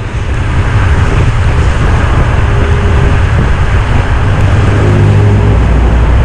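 Ford Probe's 2.5-litre KL-DE V6 running loud through its mildly lacking exhaust, a steady rumble that swells over the first second and then holds.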